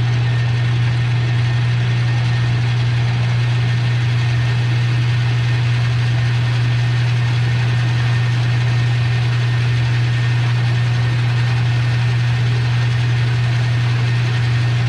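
A small 10-inch Rockwell metal lathe runs at a steady speed with a strong, even low hum. A cutting tool scores a deep mark into the spinning pin stock at its cut-off length.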